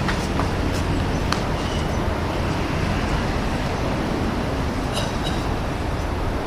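Steady low outdoor rumble, with a few faint clicks and two quick ticks close together about five seconds in.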